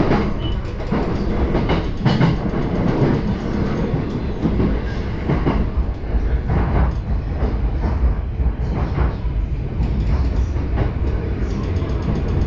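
JR Yamanote Line commuter train running between stations, heard from inside the carriage: a steady low rumble of wheels on rail with irregular clacks over rail joints.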